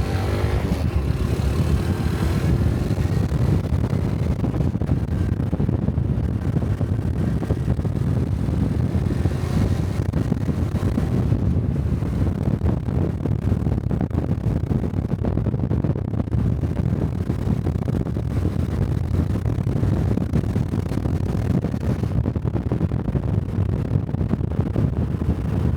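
Honda Cub 125 cc motorcycle riding along at steady speed: the engine running under a loud, steady low rumble of wind buffeting the microphone.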